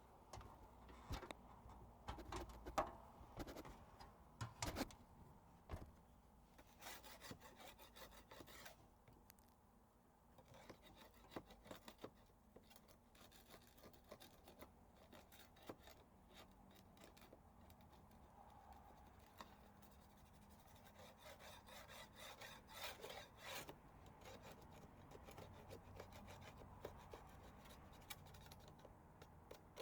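Faint, irregular scraping of a paint scraper rasping old paint off weathered wood siding, coming in runs of quick strokes.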